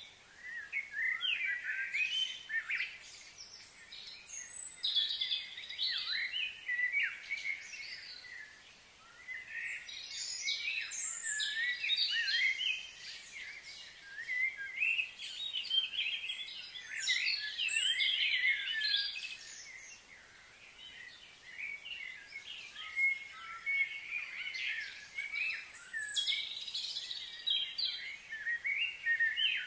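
Birds chirping and calling: many short, quick, overlapping calls that come in bouts of a few seconds, with brief lulls between them.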